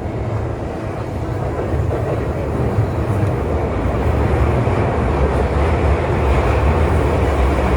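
Train running on rails: a steady rumble and rail noise that grows gradually louder.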